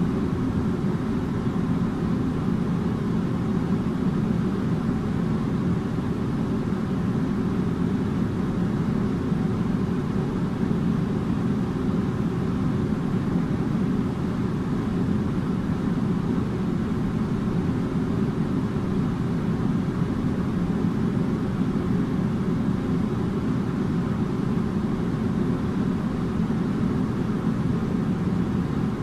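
Air conditioner running steadily: a constant low hum and airflow noise, heaviest in the low range, with no change in level.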